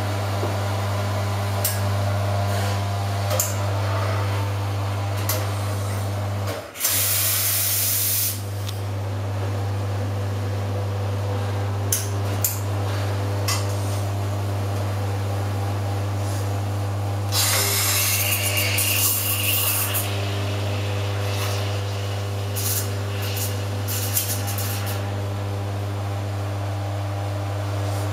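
Pierro Espresso Silver commercial espresso machine's pump running with a steady hum while it back-flushes one group and extracts espresso from the others. The pump cuts out briefly about six seconds in. Loud bursts of hissing water and steam come twice, the longer one near the middle.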